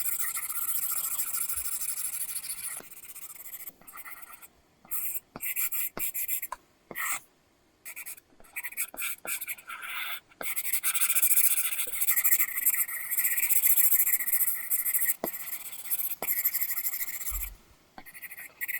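Apple Pencil nib scratching across a paper-texture screen film on an iPad as it draws. There are long strokes near the start and through most of the second half, and short quick strokes and sharp taps of the nib in between.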